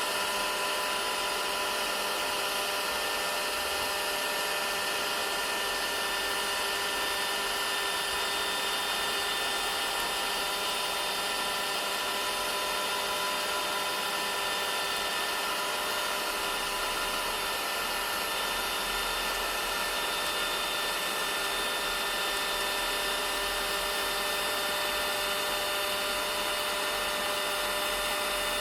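Vacuum cleaner running continuously: a steady rushing hiss of air with a constant motor whine, no change in speed.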